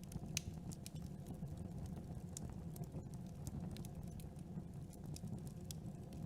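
Campfire burning: a steady low roar of flames with irregular sharp crackles and pops of burning wood, several a second.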